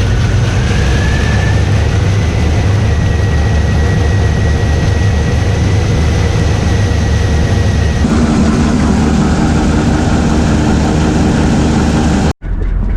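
Old combine harvester running steadily, with a high whine that rises about a second in and holds level. About eight seconds in the sound changes to a deeper drone, and it cuts out abruptly for a moment just before the end.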